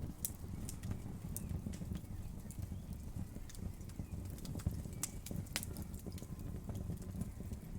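Wood fire crackling in a fireplace: irregular sharp pops and crackles over a low, steady rumble of the flames.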